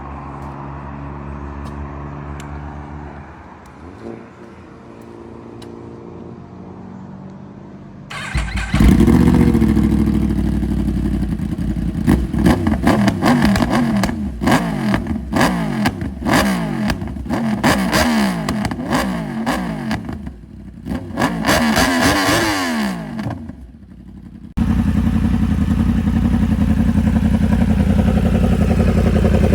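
Yamaha R1 sportbike's inline-four engine idling, then revved hard over and over with sharp pops and cracks from the exhaust. Near the end it holds a loud, steady note.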